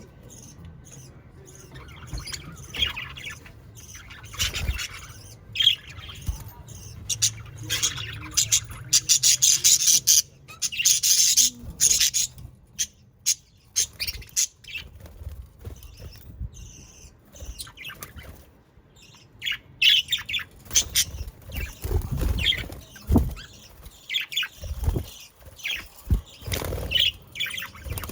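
Budgerigars chirping and chattering in quick, irregular calls, busiest in a dense flurry about a third of the way in, thinning out for several seconds, then picking up again. A few dull thumps come in the second half.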